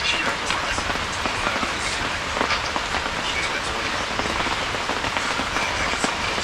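Heavy rain falling steadily, a dense even hiss full of small drop impacts.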